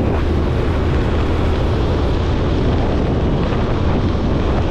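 Steady wind rush over the microphone with the motorcycle's engine and road noise droning underneath while riding at highway speed.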